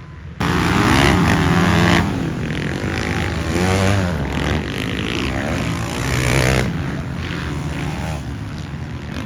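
Motocross bikes racing, engines revving up and falling back again and again through the gears. The sound starts abruptly about half a second in.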